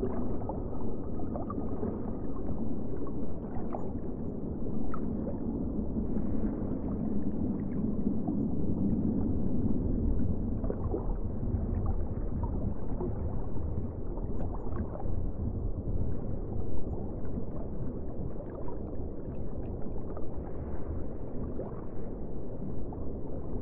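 Steady, muffled rushing noise of water, with a few faint ticks scattered through it.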